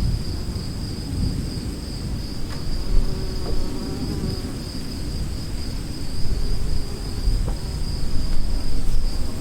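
Storm ambience: insects such as crickets keep up a steady high-pitched drone over a low, uneven rumble of distant thunder. A few faint clicks and a brief pitched sound come through about three to four seconds in.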